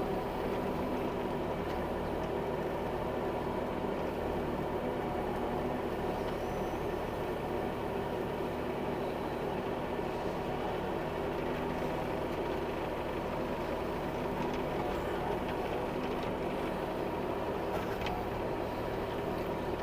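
Bobcat E26 mini excavator's diesel engine running steadily as the machine scoops earth, an even hum with no sharp knocks.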